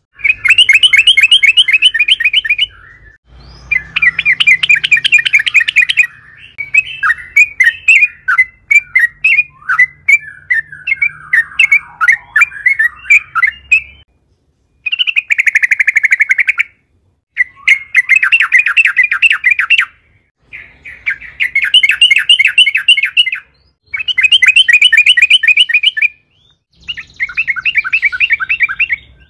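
Yellow-vented bulbul (trucukan) singing loudly in repeated rapid chattering trills, each about two to three seconds long with short pauses between. Partway through there is a longer stretch of looser, more varied chatter.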